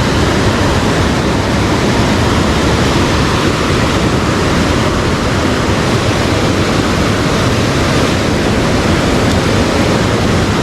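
Loud, steady rush of fast-flowing river water, swollen after rain.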